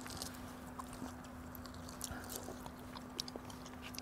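People chewing and biting into smoked pork ribs, with faint scattered small clicks and smacks of eating.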